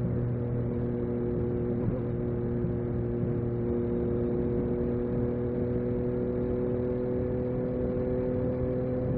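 Yamaha MT-09 SP's three-cylinder engine with an Akrapovič exhaust running at steady revs, its note holding one even pitch with rushing noise underneath.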